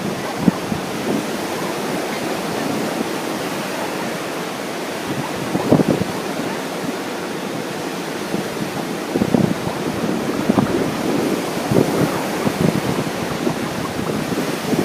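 Ocean surf washing steadily, with wind buffeting the microphone in gusts, strongest about six seconds in and again in the second half.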